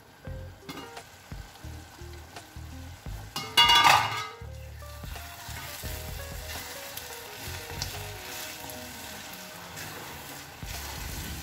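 Egg bhurji frying and sizzling in a cast-iron skillet while a wooden spatula stirs it. About three and a half seconds in there is one loud, ringing metal clatter as the steel lid comes off the pan.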